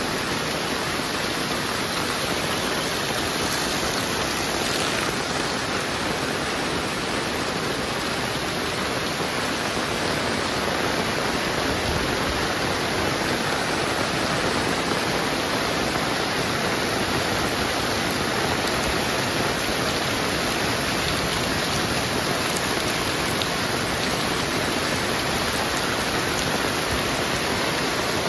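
Heavy rain falling steadily: a dense, even hiss with no break or change in strength.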